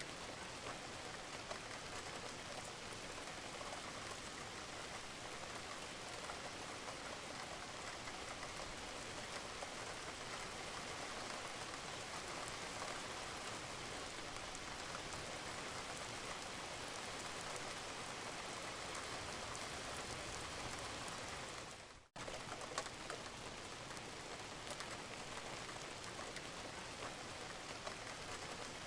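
Steady rain falling on a roof, with dripping water, as an even hiss. About 22 seconds in, the sound dips to silence for a moment and comes straight back, like a loop point in the recording.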